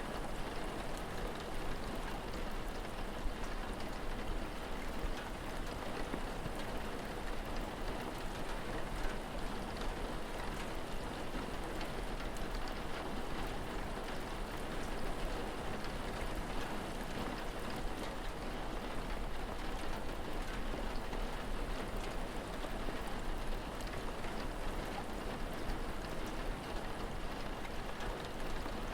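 Steady rain falling, an even patter with no breaks, over a constant low rumble.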